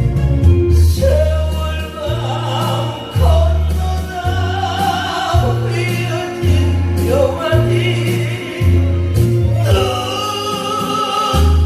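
A slow song sung live through a PA over amplified backing music, with a heavy bass note pulsing about every second and a half under the melody.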